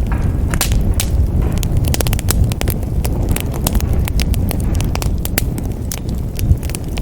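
Wood fire burning in a fireplace, with a steady low roar and many irregular sharp crackles and pops of burning logs.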